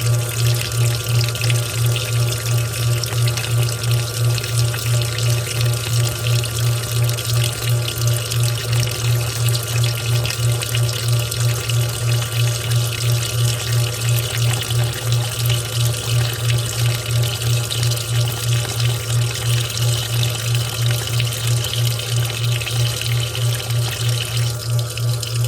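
Washing machine running: water sloshing and rushing in the machine over a low hum that pulses evenly a little over twice a second. Part of the higher hiss drops away near the end.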